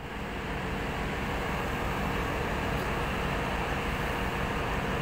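Train running into a station: a steady low rumble with a faint hum, building slightly over the first second and then holding level.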